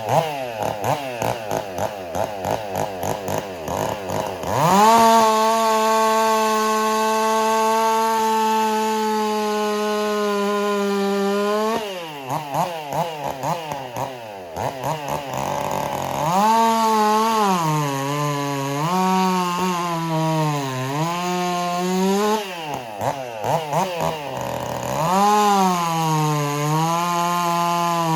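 Stihl MS 400 C two-stroke chainsaw blipped in quick revs, then held at full throttle. After more short blips it is run under load, its pitch sagging and recovering as the chain bites into knotty wood.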